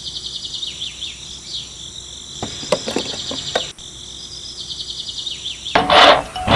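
Outdoor ambience of repeated high chirping, with a short, louder rushing noise near the end.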